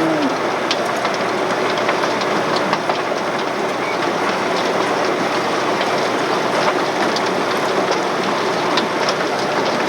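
Barn machinery running, a steady rushing clatter with many small clicks and rattles and no change in level.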